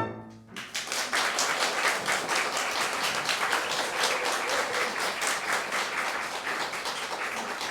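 Audience applauding, starting about half a second in just as the strings' final chord dies away, and easing off slightly near the end.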